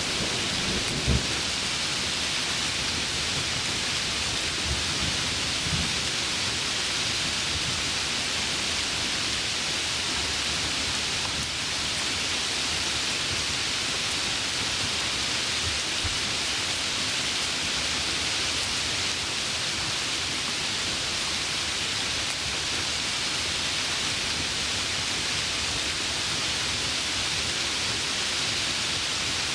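Heavy rain falling steadily, a dense even hiss. Low thunder rumbles and crackles in the first few seconds, then fades, leaving the rain alone.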